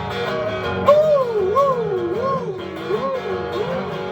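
Strummed acoustic guitar accompaniment to a folk song. From about a second in, a wordless vocal melody swoops up and down over it in a series of short arcs.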